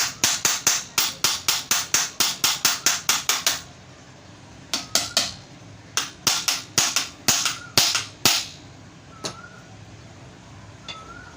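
Rapid, sharp hammer taps, about five a second, in several runs with pauses between them, striking the pedestal fan motor's housing to seat the newly fitted bearing so the shaft turns freely.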